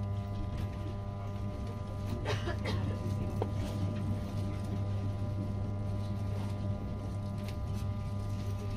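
Steady low hum and rumble of a moving train, heard from inside the passenger carriage, with a few brief clicks and rattles about two to three seconds in.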